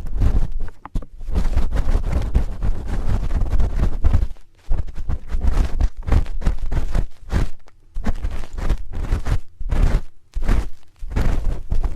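Spoon scraping and rubbing at an ear right against the microphone: a quick, irregular run of scratchy strokes with heavy low thumps, pausing briefly a few times.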